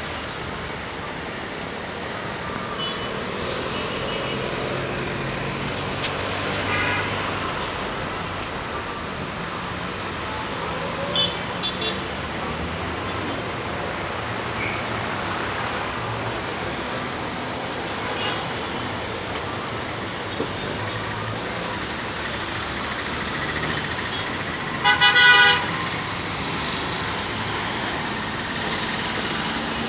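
Steady street traffic noise, with a vehicle horn sounding briefly about 25 seconds in as the loudest sound, and fainter short toots earlier on.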